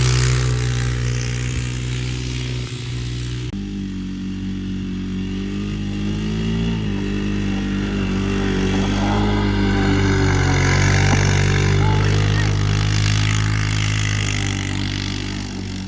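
Quad (ATV) engine running at a fairly steady speed, its pitch rising and falling a little, with a sudden change about three and a half seconds in.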